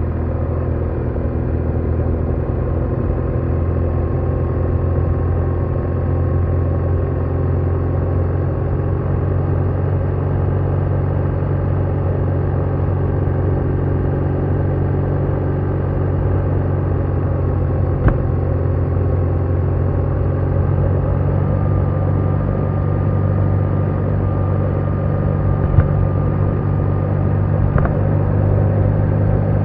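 BMW R1200R's boxer-twin engine running steadily at cruising speed, with road and wind noise; a couple of small ticks near the end.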